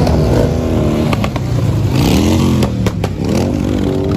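Motorcycle engines running, with one rev rising and falling about two seconds in, and a few sharp clicks.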